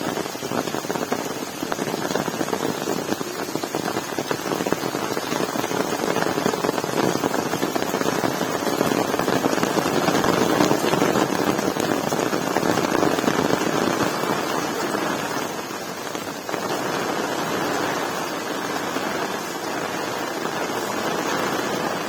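Heavy rain falling, a dense steady patter that swells to its loudest about halfway through and eases briefly about three quarters of the way in.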